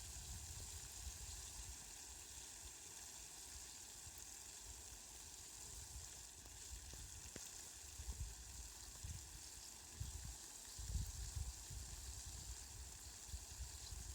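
Steady, faint hiss of falling rain, with brief low rumbles now and then in the second half.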